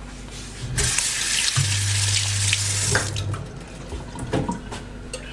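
Kitchen tap running for about two and a half seconds, with a low hum joining partway through, then shut off; a few light knocks follow.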